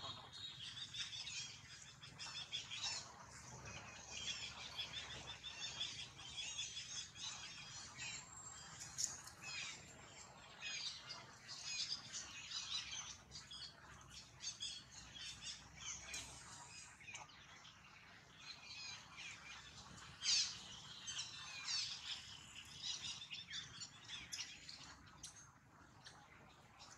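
Birds chirping and twittering in a dense, continuous chorus of short high calls, with one louder call about twenty seconds in.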